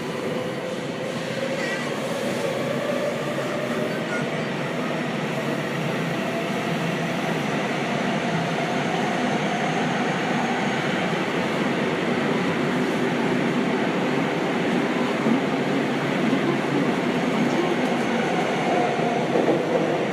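Running sound inside a Seibu 6000-series train with a Hitachi GTO-thyristor VVVF inverter, travelling through a subway tunnel: a steady rush of wheels and traction motors, with a faint motor whine rising in pitch over the first few seconds.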